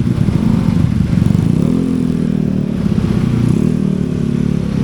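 Motorcycle engine running at low speed in stop-and-go traffic, its pitch rising a little about two seconds in.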